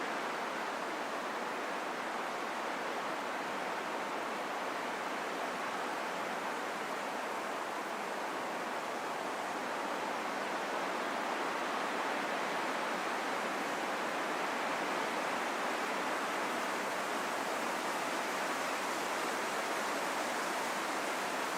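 Steady rain falling in a forest, an even hiss.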